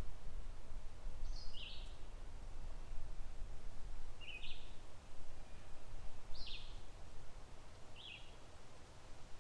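A small songbird giving short, high chip calls, about five of them a second or two apart, over a steady low rumble of wind and creek water.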